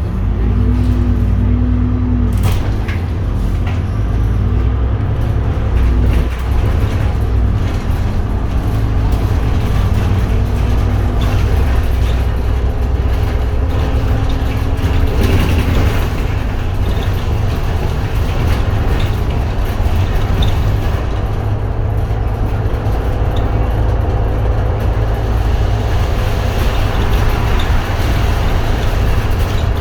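Edison Motors Smart 110G city bus running under way: its GX12P CNG engine and ZF six-speed automatic drivetrain give a steady low rumble, mixed with road noise, as heard inside the bus.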